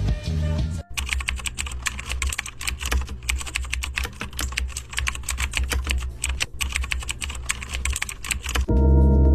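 Rapid typing on a computer keyboard, many keystrokes a second, over a low steady hum. A brief bit of music cuts off about a second in, and a loud sustained humming tone starts near the end.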